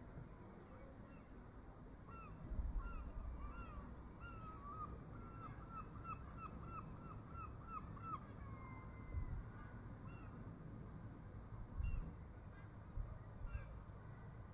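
A bird calling in a fast series of short, arched notes, about three a second, which stop about eight seconds in. Under them is a steady faint background with two brief low rumbles, one a couple of seconds in and one near the end.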